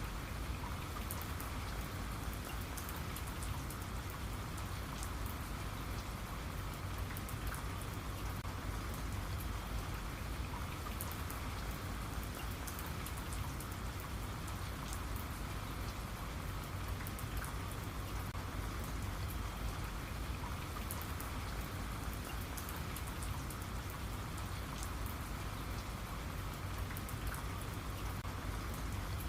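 Steady rain falling, with many small drops ticking on a surface over a constant low rumble.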